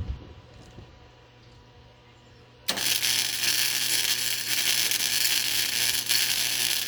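Flux-core MIG welding arc sizzling and crackling for about four seconds, starting suddenly about two and a half seconds in and cutting off near the end, over a steady low hum.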